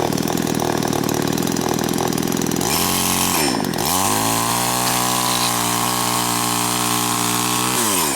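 Small two-stroke chainsaw engine running while cutting wood. About three seconds in, its pitch sags and recovers, it then holds at high revs, and it drops back near the end. The saw is short of power, which the owner puts down to it not yet being warmed up.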